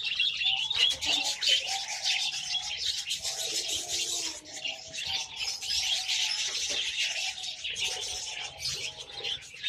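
Pet birds chirping and chattering continuously in a dense stream of high calls, with lower-pitched calls mixed in here and there.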